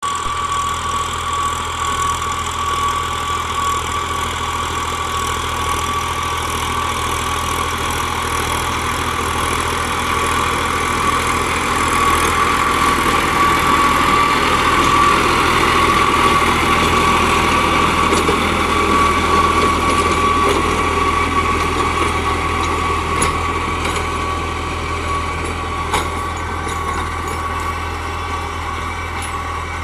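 New Holland 3600-series tractor's diesel engine running steadily, with a steady high whine over the low engine hum; it grows a little louder in the middle and eases off towards the end.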